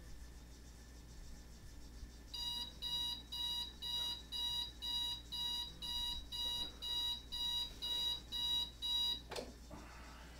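Electronic alarm clock beeping, about two high-pitched beeps a second for about seven seconds, cut off by a sharp click.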